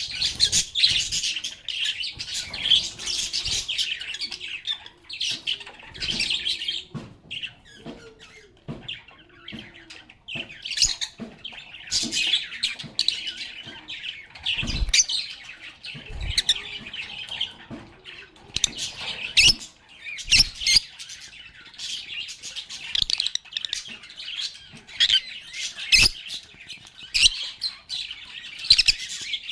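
Several lovebirds chirping and chattering in quick, high-pitched runs, with a quieter lull about a third of the way in. A few sharp knocks sound among the calls.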